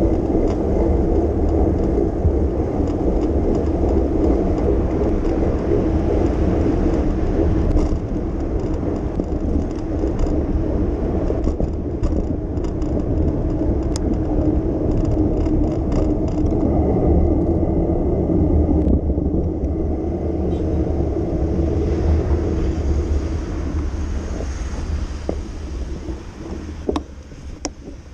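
Steady low rumble of a bicycle ride through city traffic: tyres on the road, passing vehicles and wind buffeting the microphone. It dies away over the last few seconds.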